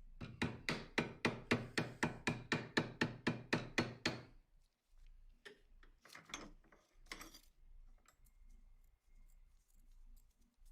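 A hammer tapping rapidly and evenly on a part of a Colt M1911 pistol during its restoration, about fifteen strikes at roughly four a second, stopping about four seconds in. Three short, rough sounds from working on the gun follow a little later.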